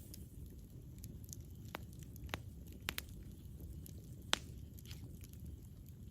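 Campfire burning: a steady low rumble of flames with scattered sharp crackles and pops from the burning wood, the loudest about four seconds in.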